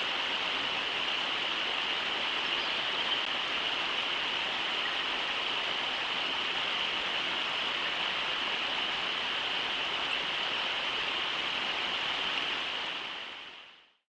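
Steady rush of shallow river water running over the Brooks River riffles, a broad even hiss. It fades out near the end.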